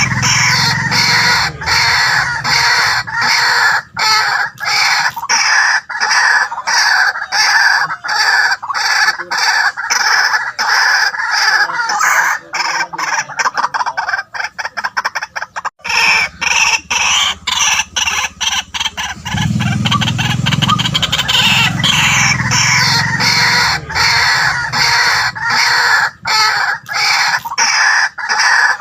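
White-breasted waterhen calling, a long run of harsh, rapidly repeated notes with a brief break just before the middle.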